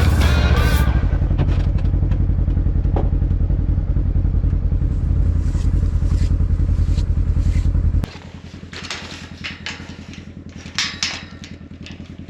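Polaris General 1000 UTV's twin-cylinder engine running with a steady low rumble, which cuts off abruptly about eight seconds in. After that, scattered light knocks and clatter.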